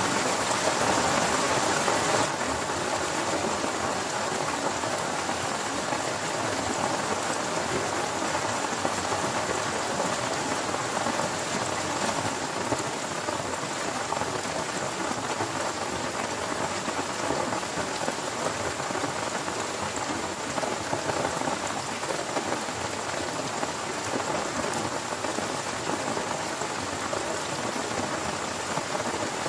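Heavy rain falling steadily, a dense even patter that eases slightly about two seconds in.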